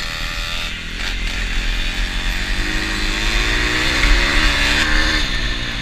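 Small pit bike engine revving, its pitch rising over the first few seconds to a peak about four seconds in, then easing off.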